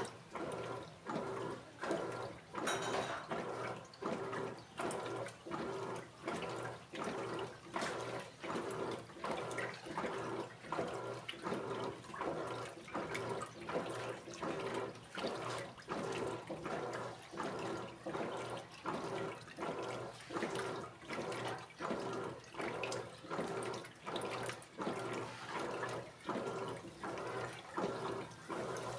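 Electrolux Essential Care 14 kg washing machine agitating its wash load in water: a rhythmic swish and slosh in regular surges, a little more than once a second.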